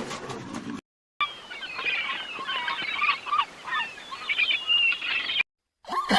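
A flock of birds calling together: many short, overlapping chirping calls for about four seconds. It follows a brief gap after the tail of a big cat's roar.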